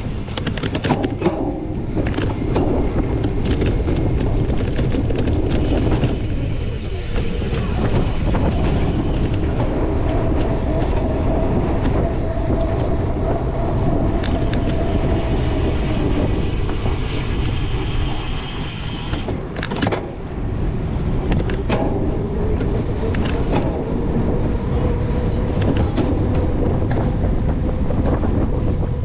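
Wind buffeting the microphone on a cyclocross bike ridden at race speed, with steady rumble and frequent rattles and knocks from the bike over rough ground.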